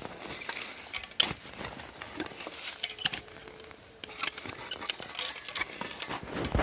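Irregular scrapes, knocks and crackles of a hand digging tool working into dry soil and debris, with a few sharper knocks, to recover a metal detector target.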